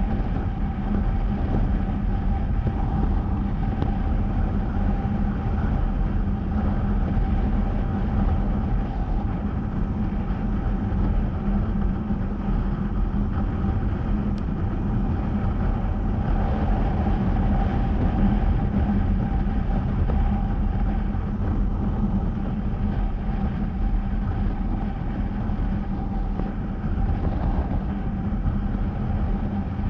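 Honda CBR250R's single-cylinder engine running at a steady cruise, its engine tone holding even, over a constant low rush of wind and road noise.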